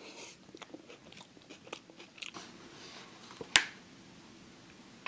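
Close-up eating sounds: a person chewing a mouthful of tuna salad, with many small crisp clicks. One sharp click about three and a half seconds in is the loudest sound.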